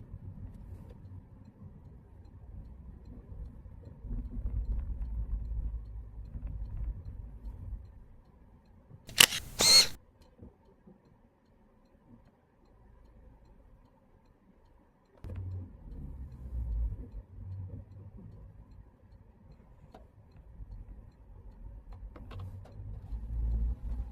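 Low, uneven rumble of a Citroën C3 being driven. About nine seconds in come two loud, sharp bursts of noise half a second apart, followed by a few seconds of near silence before the rumble returns abruptly.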